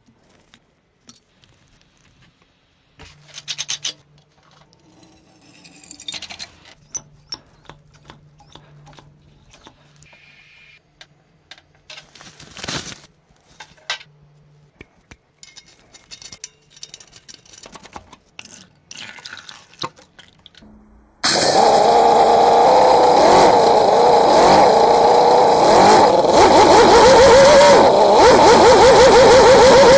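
Clicks and taps from small metal parts being handled, then, about two-thirds of the way in, a miniature V8 engine model suddenly starts running loud and steady to the end, its pitch wavering and rising near the end.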